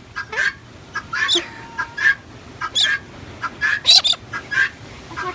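Chickens clucking in short, repeated calls, with three louder, shrill bird calls among them.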